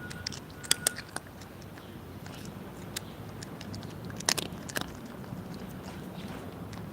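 Cats chewing and crunching their food, with scattered sharp crunches and clicks; the loudest come about a second in and again about four seconds in.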